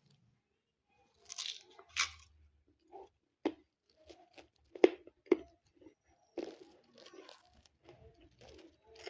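A parrot biting into and shredding food with its beak: irregular sharp cracks and short crunching, tearing sounds, a few loud snaps among quieter nibbling.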